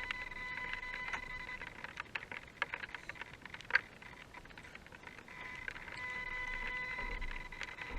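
Electric RC rock crawler's motor and speed controller whining at a steady pitch. The whine fades for a couple of seconds in the middle and then returns. Scattered small clicks and ticks sound over it.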